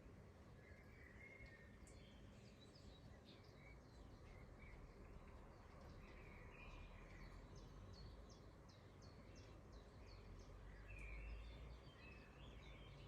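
Faint birds chirping and calling, with a run of quick repeated short chirps in the middle, over a low steady background rumble.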